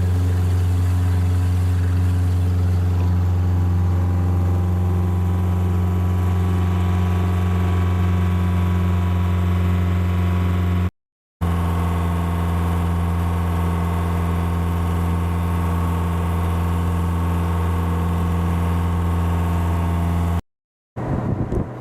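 A ship's diesel engine running at a steady speed: a loud, even drone with a deep hum. The sound cuts out briefly about halfway through and again near the end.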